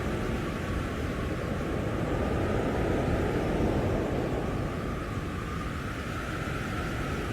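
Blizzard wind blowing in gusts: a steady rushing noise with a heavy low rumble, swelling about halfway through and easing off again.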